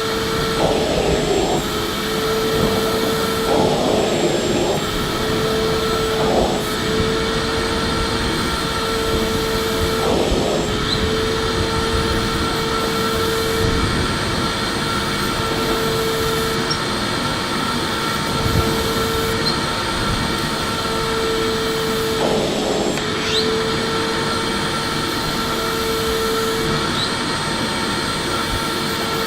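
Electric vacuum cleaner running steadily: a constant motor whine over the hiss of rushing air, with a few brief rougher patches now and then.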